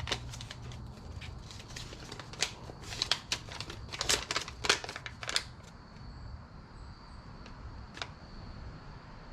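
Plastic packaging crinkling and crackling as it is handled, with a busy cluster of sharp clicks and rustles through the middle and only a few scattered clicks later.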